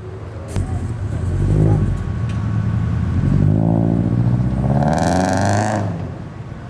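Lamborghini Aventador SV's naturally aspirated V12 revving hard as the car accelerates past, its pitch climbing for a couple of seconds before the sound fades near the end.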